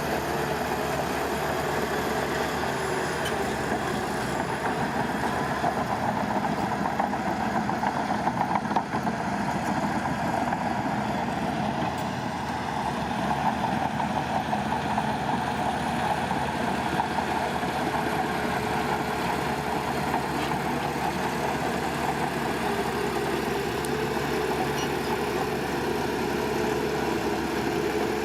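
Heavy diesel construction machinery running steadily, an even engine drone with no breaks.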